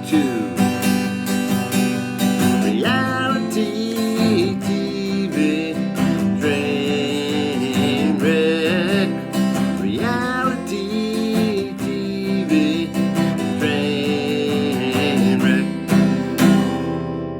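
Acoustic guitar strumming a country-style accompaniment, with a wavering melody line held over the chords; the music thins out near the end.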